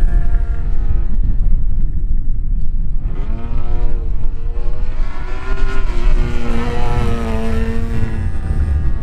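DA-50 single-cylinder two-stroke gas engine and propeller of a 50cc RC aerobatic plane in flight, exhaust through a canister muffler. It drops low for a couple of seconds, then throttles up about three seconds in, its pitch rising and swinging up and down as the plane manoeuvres before levelling off near the end.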